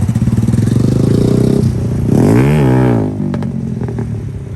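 Motorcycle engine running steadily, then revved up and back down once about two seconds in, settling back to a lower running note.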